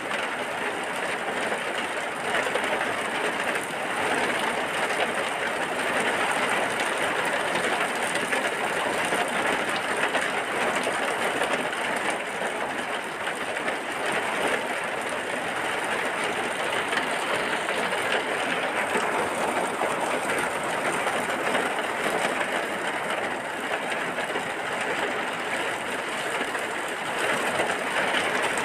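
Steady heavy rain falling, an even rushing noise without breaks or thunder.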